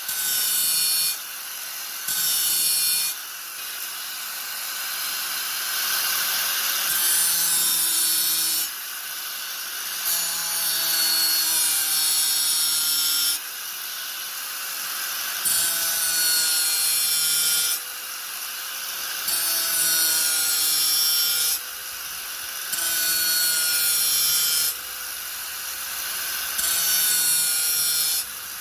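Angle grinder running continuously, biting into the work again and again in loud stretches of two to four seconds. Between cuts the motor runs on with a steady whine.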